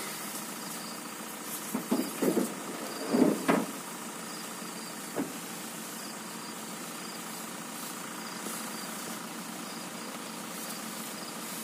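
Vehicle engine idling steadily, with crickets chirping at an even pace. A few louder, short sounds come between about two and three and a half seconds in.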